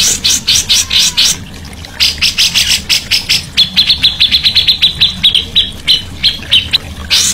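Songbird calling in quick runs of sharp, high notes, then a fast chattering trill of even notes about halfway through, over a steady low hum.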